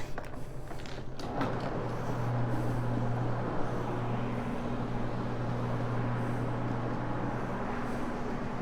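Pad-driven carpet-cleaning floor machine running steadily, its hog's hair pad scrubbing the carpet, with a couple of knocks in the first second or so.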